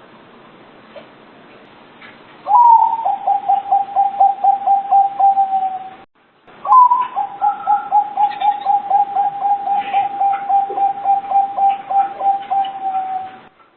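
Zebra dove (perkutut) cooing: two long runs of rapid staccato coos, each opening with a slightly higher note and then about four short coos a second at a steady pitch.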